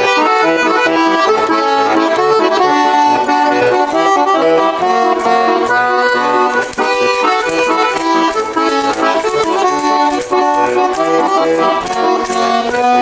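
Bayan (Russian button accordion) playing a lively folk dance tune without singing, the instrumental close of the song. A rhythmic jingling percussion joins about three and a half seconds in.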